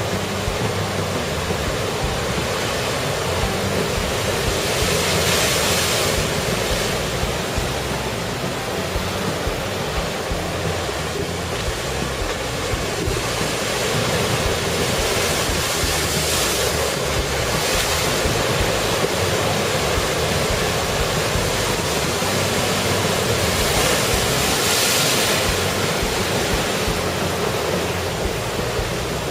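Heavy typhoon-driven surf crashing and washing against the shore with steady wind, the noise swelling in about three big surges as waves break.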